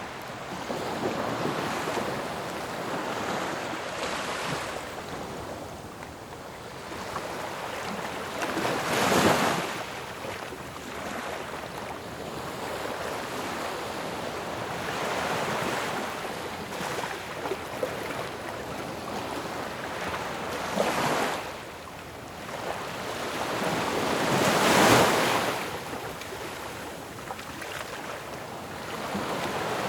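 Ocean waves breaking on a shore: a continuous wash of surf with waves crashing about 9 seconds in, again around 21 seconds, and loudest near 25 seconds.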